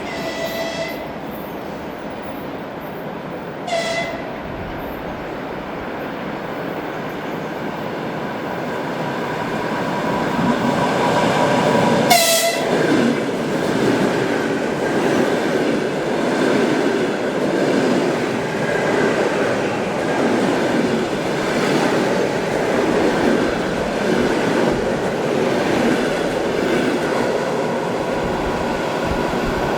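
EP2D electric multiple unit sounding three short horn toots, the last and loudest about twelve seconds in. It then runs past with a steady rumble and rattle of wheels on the rails.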